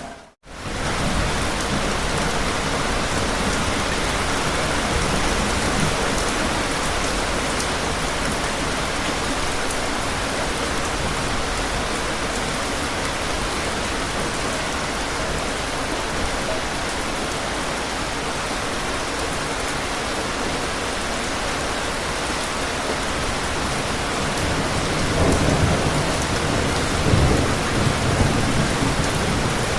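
Steady rain falling in an even hiss. The sound drops out for a split second just after the start, and low rumbles of distant thunder come in near the end.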